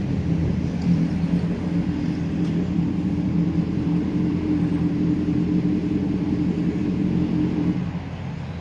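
Steady low rumble with a fine, fast pulsing texture, which drops off suddenly near the end.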